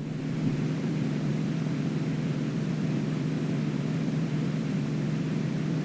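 Extra 300L aerobatic plane's six-cylinder Lycoming engine and propeller droning steadily, heard from inside the cockpit. The drone holds an even low pitch throughout.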